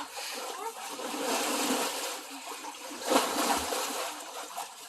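Water splashing and sloshing in a swimming pool, with one louder splash about three seconds in.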